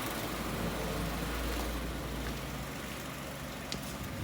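Chevrolet Onix three-cylinder engine idling while parked, with a tinny rattle that comes with pressing the brake pedal. The mechanic puts it down to the brake vacuum pump; the dealer calls it normal for a three-cylinder. The noise gets quieter about two and a half seconds in.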